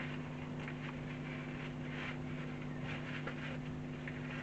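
Rag wiping and handling small RC shock absorber parts: soft, intermittent rustling with a few faint light clicks, over a steady low background hum.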